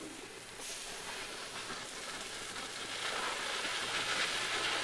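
A steady hiss that grows louder about three seconds in.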